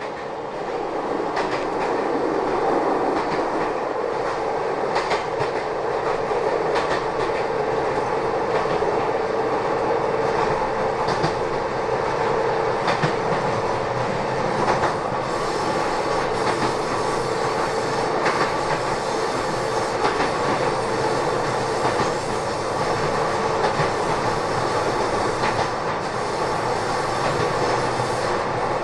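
Kobe Electric Railway train heard from inside the passenger car while running: a steady rumble and hum from the running gear, with wheels clicking over rail joints at irregular intervals.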